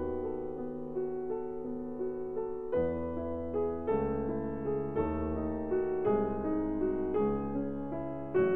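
Background piano music, slow, with a new chord struck roughly every second and left to ring.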